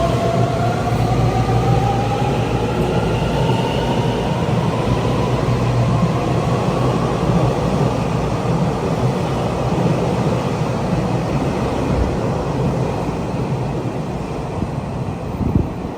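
Taiwan Railways train running past, a steady rush of wheel-on-rail noise. A whine rises in pitch over the first few seconds, and the sound eases off near the end.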